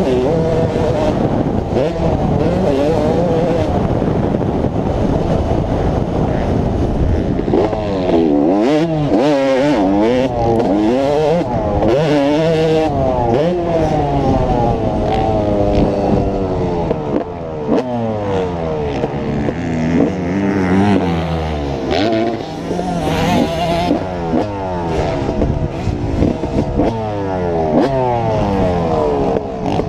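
Motocross dirt bike engine being ridden hard, its pitch repeatedly climbing under throttle and dropping off as the rider accelerates, shifts and slows through the track.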